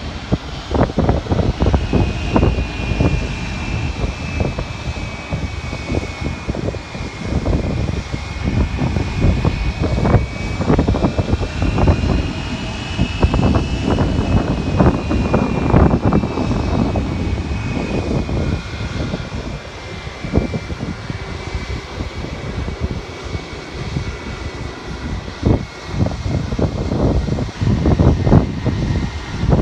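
Jet airliner's engines whining, a high-pitched tone that rises slightly around the middle and then falls slowly. Heavy wind buffets the microphone in gusts.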